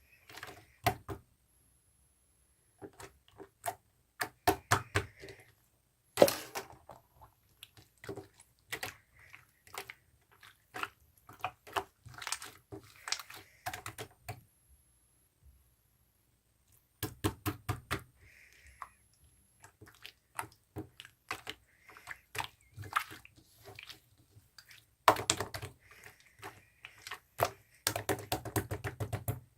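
Homemade slime being squeezed and poked by hand, making clusters of quick sharp clicks and pops with short pauses between, and a few louder snaps.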